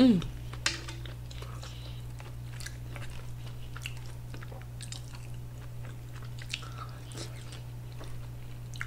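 Close-miked chewing with the mouth closed, with small wet mouth clicks and the light scrape of a fork against a plate, over a steady low electrical hum. Right at the start there is a short falling 'mm' from the eater.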